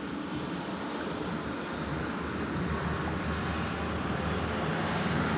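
Steady rumble of road traffic, growing gradually louder as vehicles approach.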